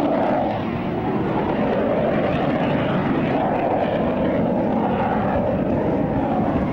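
A fixed-wing display aircraft's engine running steadily and loudly as it flies, with a slowly shifting drone.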